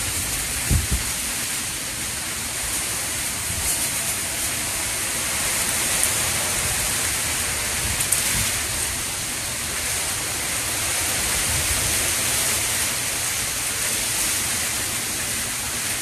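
Hurricane Irma's wind and rain, a loud steady rushing noise, with a few low thumps of gusts, the first about a second in.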